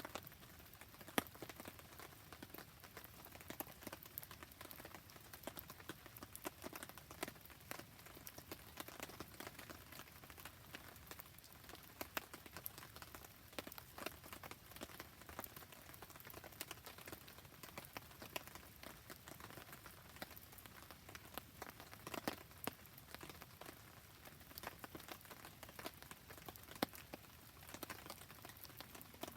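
Rain pattering softly with a wood campfire crackling, a steady faint hiss dotted with frequent sharp ticks and pops, one louder pop about a second in.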